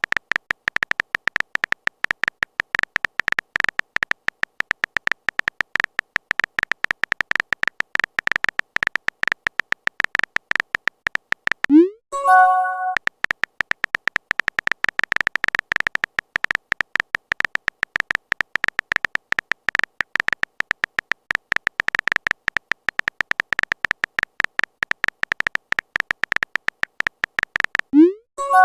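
Rapid, even stream of short high clicks at one pitch, a chat-typing sound effect, broken about twelve seconds in by a message chime: a quick rising swoop and then a short chord of tones. The typing starts again after the chime, and another chime comes at the very end.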